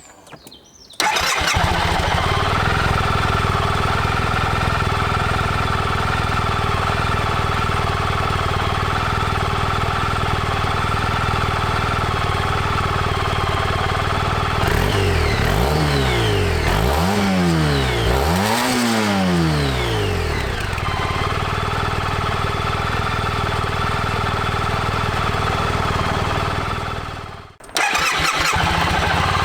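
Suzuki Burgman 650 maxi-scooter's parallel-twin engine starting about a second in and idling steadily, then revved twice briefly in the middle before settling back to idle. Near the end the sound drops out for a moment and the engine is running again at idle.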